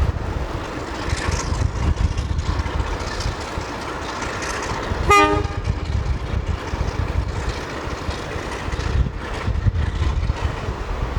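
A single short toot, about half a second long, from a train's whistle just after the middle, over a steady low rumble and wind buffeting the microphone.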